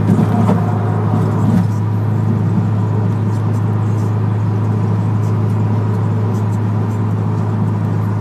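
Exhaust drone of a Mitsubishi VR-4 with a home-built exhaust, cruising at about 70 mph and heard from inside the cabin: a steady low hum over road noise, with a couple of brief louder bumps near the start.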